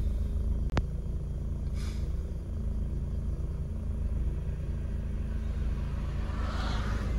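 Mazda rotary engine idling steadily, heard from inside the car's cabin, with a single sharp click a little under a second in.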